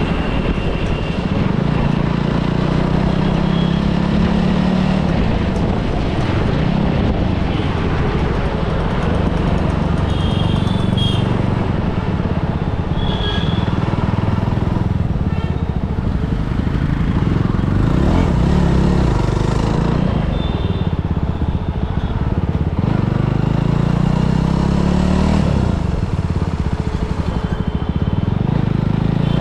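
Superbike engine running at low speed, its pitch rising and falling with the throttle, with street traffic around it and a few short high beeps.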